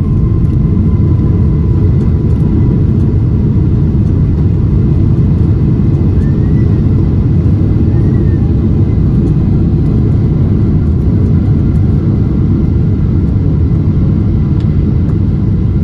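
Loud, steady low rumble inside the cabin of a Boeing 777-300ER with GE90-115B engines as it rolls along the runway after landing.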